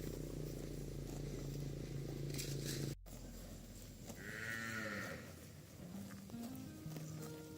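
A cow mooing once, a short arching call about halfway through, after a steady low hum that cuts off abruptly about three seconds in.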